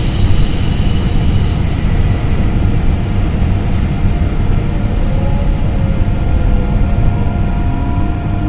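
Electric train heard from inside a passenger coach, pulling away from a station: a steady low rumble of wheels and running gear, with a faint motor whine that starts to rise in pitch as the train gathers speed.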